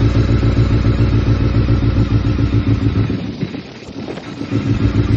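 Honda CBR600F4i inline-four engine running loud and close with a steady pulsing beat. It eases off about three seconds in, then picks up again near the end. The engine runs fine while the bike has an electrical fault that makes the dashboard power-cycle.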